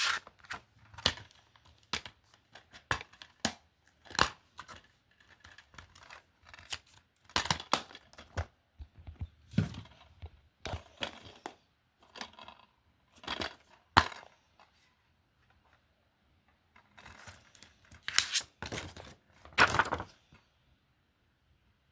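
Handling noise from plastic DVD cases: irregular sharp clacks and rustling as cases are picked up, moved and set down. It stops about a second before the end.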